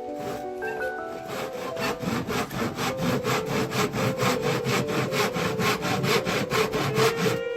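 Hand saw cutting with quick, even strokes, about five a second, starting about a second in and stopping abruptly near the end, over background music.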